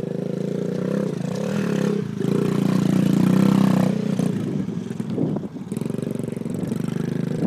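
Dirt bike engine running and revving as it rides, with the throttle easing off and the pitch wavering about five seconds in before it picks up again.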